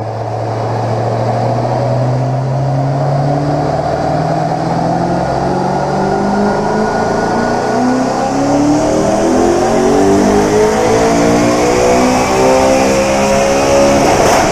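Audi 4.2 L 40-valve twin-turbo V8 running on E85, pulling steadily up through the revs on a dyno, its pitch rising smoothly for the whole run. Near the end there is a sharp crack as it reaches its 8500 rpm rev limiter, where the engine is set up to spit fire.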